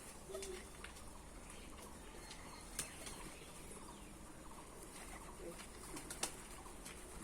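Pigeons cooing faintly, a few short low notes now and then, with a couple of sharp clicks.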